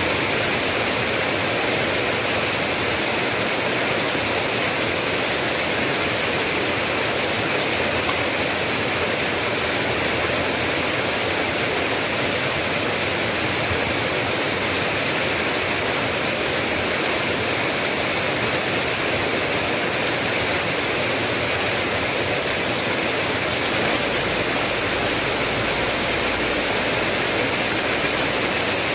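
Steady rain falling, an even, unbroken hiss, with a faint low rumble joining near the end.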